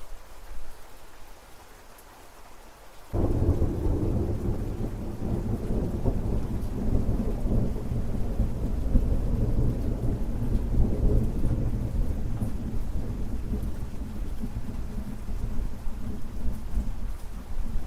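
Rain falling steadily, with thunder breaking suddenly about three seconds in and going on as a long, low, rolling rumble.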